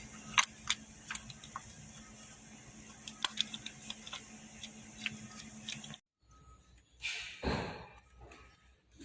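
Light metallic clicks and clinks of hand work as a new fuel injector is fitted to a Kia Sorento engine, over a steady low hum. The hum and clicks cut off abruptly about two-thirds of the way through, and a louder, duller rustling knock follows.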